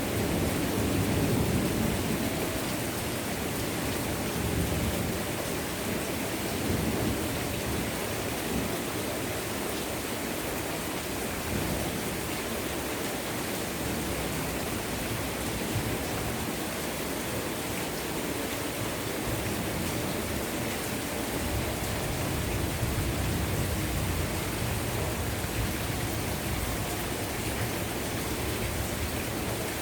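Heavy rain pouring down steadily, with the low rumble of thunder dying away in the first few seconds.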